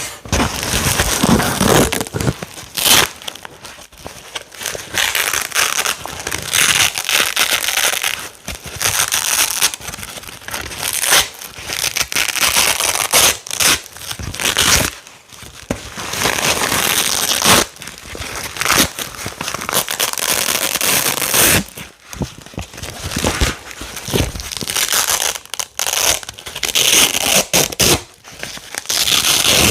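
Hook-and-loop Velcro strips being pulled apart and pressed together again and again, a loud crunchy crackling tear in repeated strokes with short pauses between them.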